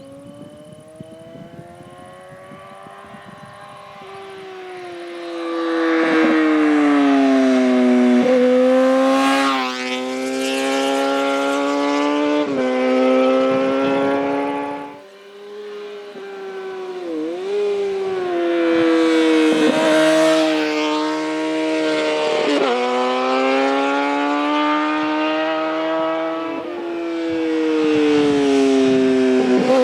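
Yamaha FZ6N's inline-four engine through a Two Brothers slip-on exhaust, pulling on the road and changing gears. Its pitch slides and then jumps at each gear change. It is fairly quiet for the first few seconds and loud from about six seconds in, with a short dip partway through.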